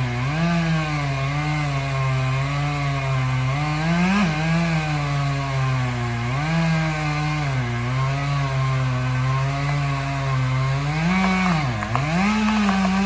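Two-stroke chainsaw cutting through the trunk of a large tree, its engine note sagging and rising again every second or two as the chain bites into the wood; near the end the revs drop sharply and come back up.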